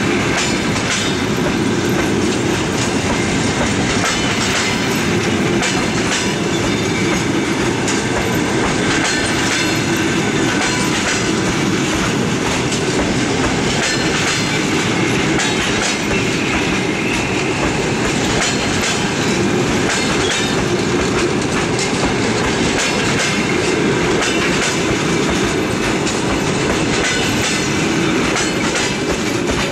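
Passenger coaches of a long-distance train rolling past, steel wheels clacking over the rail joints in a steady stream of clicks over a continuous rumble, as the train pulls out of the station.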